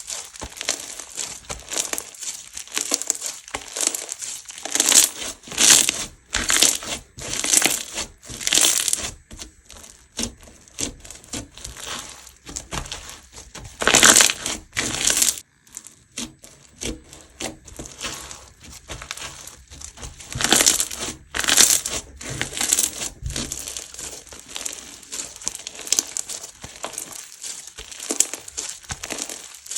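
Hands squeezing and kneading a crunchy slime, giving repeated bursts of crackling and crinkling. The squeezes come louder about five to nine seconds in, again around the middle, and again about two-thirds through.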